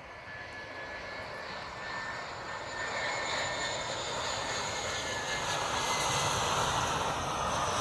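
Airliner's engines on its landing approach, growing steadily louder as it comes closer, with a high whine that drifts slowly down in pitch.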